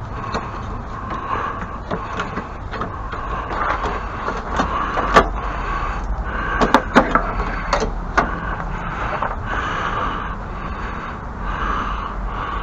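Steady background hum with a cluster of sharp knocks and clatters about five to eight seconds in, as objects are handled and set down.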